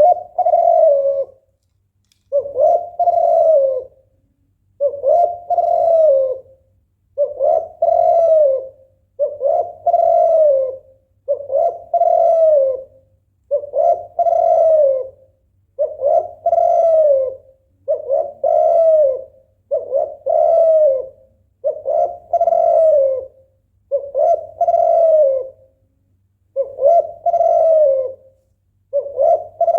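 Female spotted dove (tekukur) in breeding condition giving its 'bekur' call to draw a male: a short, arching coo repeated evenly about every two seconds.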